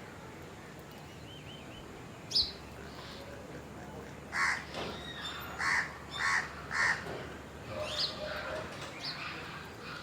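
A crow cawing four times in quick succession around the middle, with other birds chirping around it and one sharp rising chirp a couple of seconds in.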